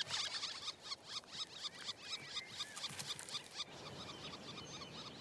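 Black woodpecker nestlings begging: rapid, evenly repeated short high calls, several a second, that stop about three and a half seconds in. Fainter, softer calls follow.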